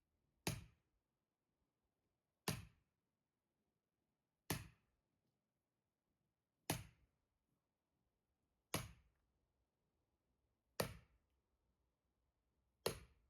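Axe chopping firewood: seven short, sudden strikes at an even pace of about one every two seconds.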